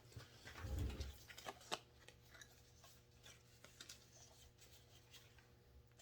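Faint handling noises of a chainsaw being worked on at a workbench: a low knock and rub about a second in, a couple of sharp clicks, then scattered light ticks.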